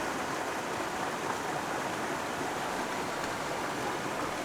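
Creek water running steadily over rock, an even rushing noise.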